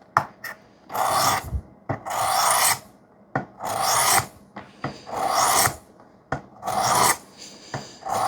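A knife blade of CPM-3V steel swiped along a wet sharpening stone on a Work Sharp guided sharpening system. There are six even strokes, each just under a second long, about one every second and a half.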